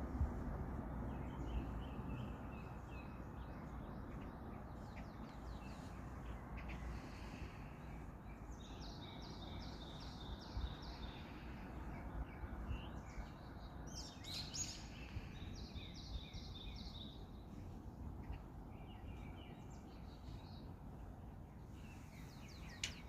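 Songbirds calling and singing, with two runs of quick repeated notes, one about a third of the way in and another past the middle, over a steady low background hum.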